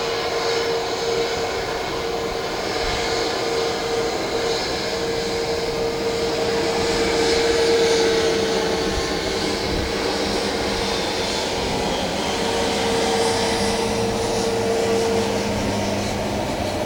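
Airliner's engines running, with a steady whine over a broad rush, growing a little louder about halfway through and then easing.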